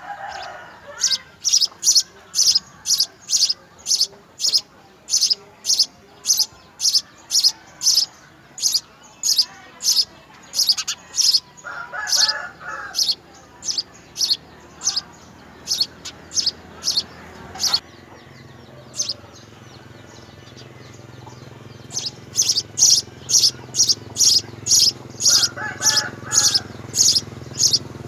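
A small bird chirping over and over, short sharp high chirps about two a second, in long runs with a pause of a few seconds past the middle. Twice a short lower call joins in, and a low steady hum comes up in the second half.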